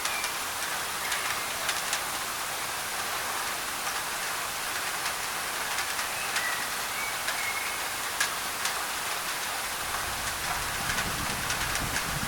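Steady rain drumming on a thin tin roof, a dense hiss with many sharp drop ticks. A few faint short bird whistles sound about halfway through, and a low rumble comes in near the end.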